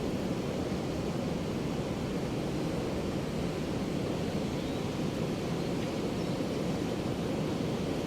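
Ocean surf: a steady, even wash of breaking waves, with no single crash standing out.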